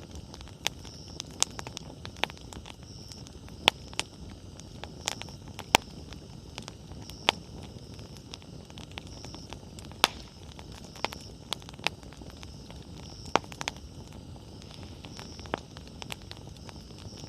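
Wood campfire burning, crackling with irregular sharp pops, a dozen or so, over the low steady rush of the flames.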